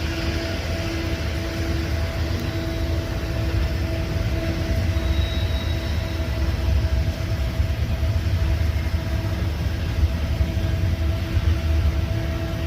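CN freight train rolling past with a steady low rumble and an even hum, heard from inside a car.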